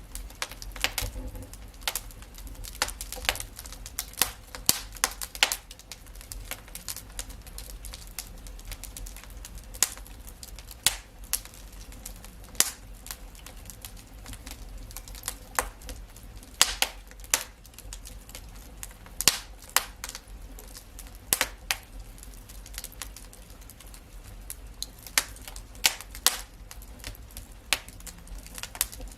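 Wood fire crackling, with sharp irregular pops and snaps, several close together at times, over a low steady rumble of flame.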